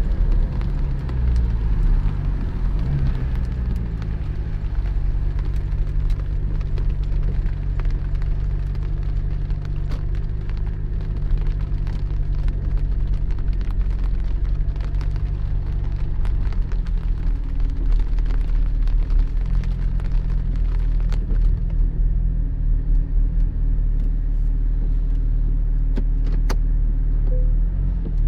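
Porsche 718 Spyder's 4.0-litre flat-six engine running under way, its note dipping and rising a few times in the first seconds, over the hiss and crackle of tyres on a wet road. The road hiss thins out about three quarters of the way through.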